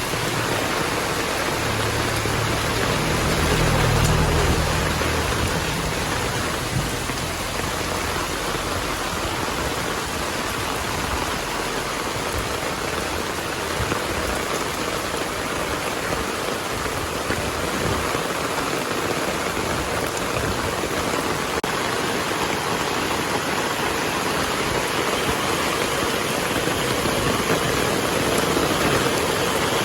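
Heavy rain falling steadily. A low rumble of thunder rises and fades about two to five seconds in.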